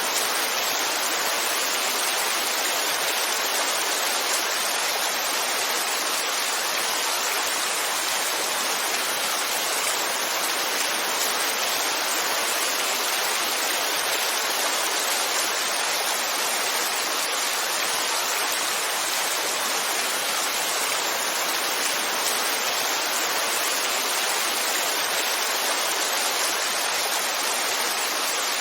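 Heavy rain falling in a steady, dense hiss, even and unbroken.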